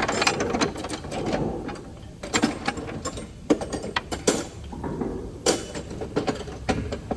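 Hand tools and parts being handled and set down during a brake job: an irregular string of sharp clicks and knocks over a low clatter.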